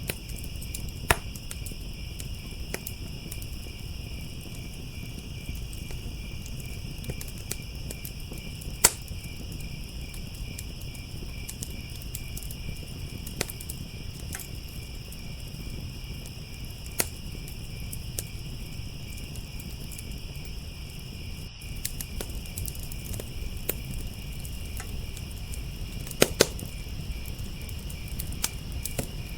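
A continuous chorus of crickets chirping over a crackling wood fire. The fire gives a few sharp pops, the loudest about nine seconds in and two close together near the end.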